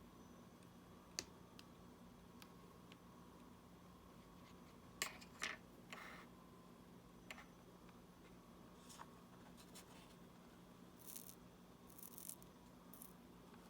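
Faint, scattered clicks and short scratches of small hand tools working on a smartwatch's casing and parts, over a low steady hum.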